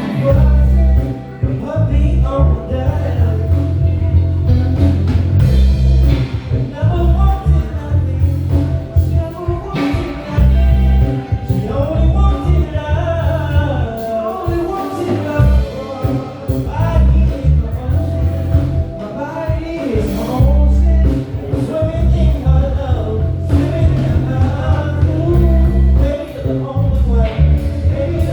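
Live band playing, with heavy bass and drums under keys and a gliding lead melody line.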